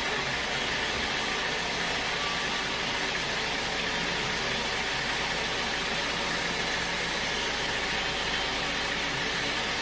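Sawmill machinery running steadily: a constant mechanical noise with a hiss strongest in the upper-middle range and an engine hum underneath, unchanging throughout.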